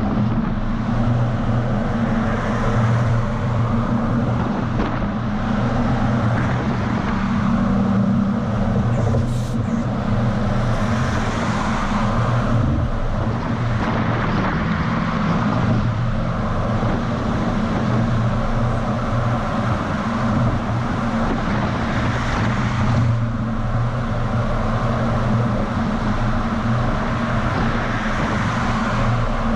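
DAF XF semi truck on the move, its diesel engine running steadily under a constant rush of tyre and wind noise, picked up by a camera mounted on the outside of the truck's side.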